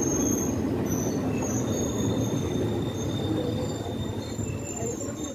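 Indian Railways passenger express coaches rolling along a station platform, heard from on board at the open door: a steady rumble with thin high-pitched squeals from the wheels as the train comes in. The sound cuts off suddenly at the end.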